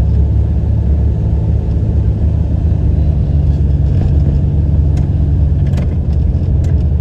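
Car driving, heard from inside the cabin: a steady low engine and road rumble, with a few light knocks about five and six seconds in.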